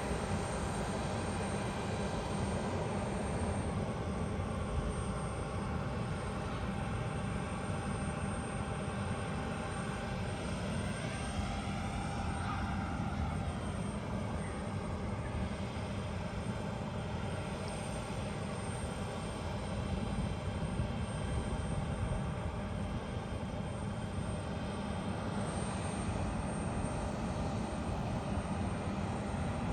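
Airliner engines running steadily at an airport, with a faint rise and fall in pitch about halfway through.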